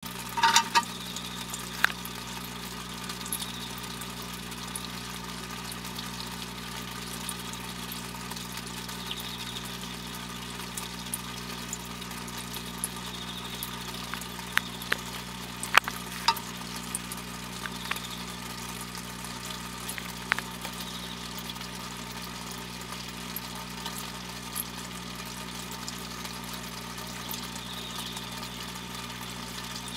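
Steady electrical hum with a faint hiss, broken by scattered sharp clicks. A brief cluster of louder clicks comes about half a second in, with others near 2 and 16 seconds.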